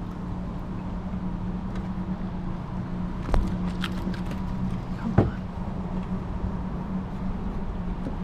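A steady, low motor hum, with sharp knocks about three seconds and five seconds in.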